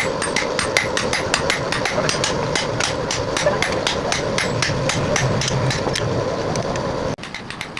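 Hand hammer blows on steel at an anvil while forging an axe, struck in a quick even rhythm of about three blows a second over a steady hum. The hammering cuts off abruptly near the end.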